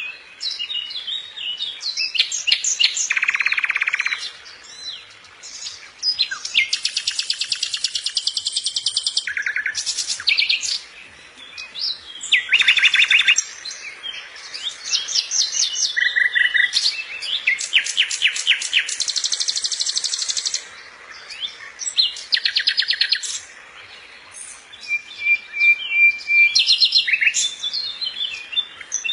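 Songbirds singing: fast trills and chirping phrases, one after another with short pauses between.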